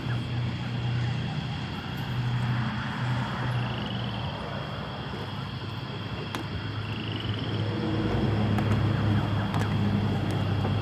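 A vehicle engine running with a steady low hum, which grows a little louder about eight seconds in.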